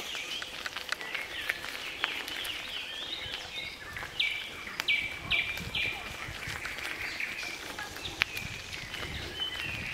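Songbirds singing and calling in the trees, with a run of four quick falling notes about halfway through, over steady outdoor background noise with a few sharp ticks.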